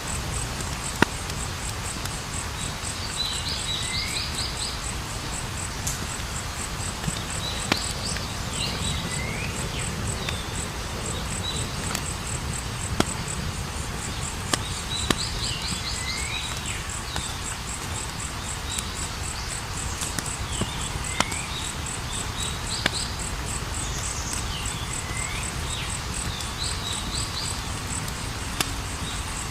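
Campfire burning with a steady low rumble and sharp crackling pops every few seconds. Behind it, crickets chirp in a fast, continuous high trill, and a short call with falling notes repeats every few seconds.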